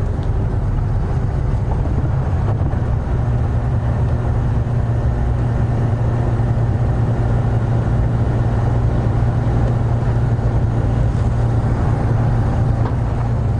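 Safari game-drive vehicle's engine running as it drives along a bush track, a steady low drone.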